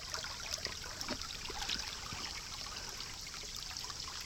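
Shallow creek water trickling and babbling over rock, a steady flow with many small droplet splashes.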